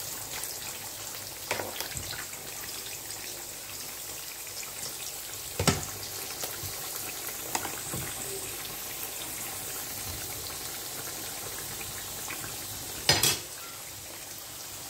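Green peas and carrots frying in hot oil, a steady sizzle, stirred with a metal spoon and spatula that knock sharply against the pans a few times, loudest about six seconds in and near the end.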